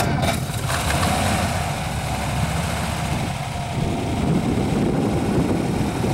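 1956 Ford Thunderbird's V8 engine, freshly started and idling steadily after a short burst of sharp noise in the first second; it starts real easy.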